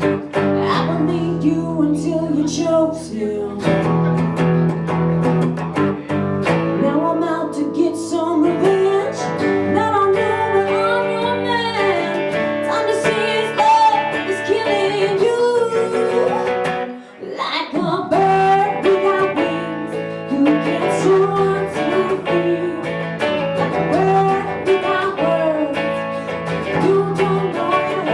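Live Americana song: a woman singing over a strummed acoustic guitar, with a brief break in the playing about two-thirds of the way through.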